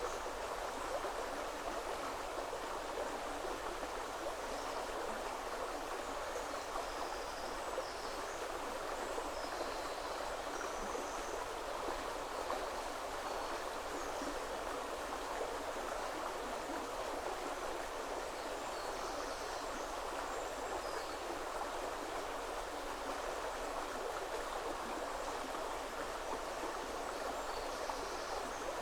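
Woodland river flowing steadily over stones, a continuous even rush of water. Faint, brief high bird calls come now and then through it.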